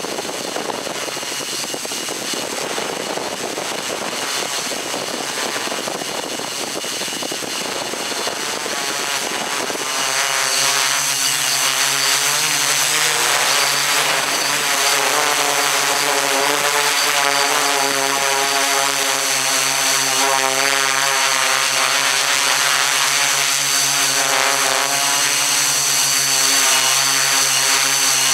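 Motors and propellers of a small camera-carrying aircraft running. A rushing, wind-like noise at first, then about ten seconds in a steady, many-toned motor whine sets in and holds, getting slightly louder.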